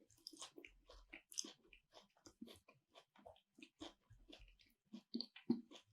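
A person chewing food close to the microphone: a run of short, irregular mouth smacks, about three or four a second.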